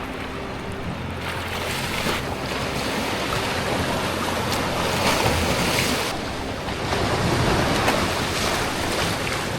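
Sea surf washing against the rocky shore, mixed with wind rushing over the microphone. The sound swells about halfway through and again near the end.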